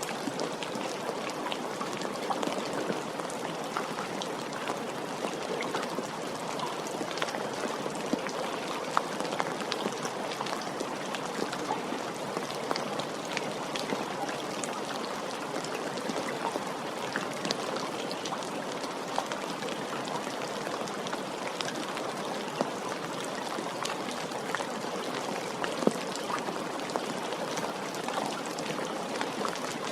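Steady rain falling, with many small individual drop ticks scattered through an even patter.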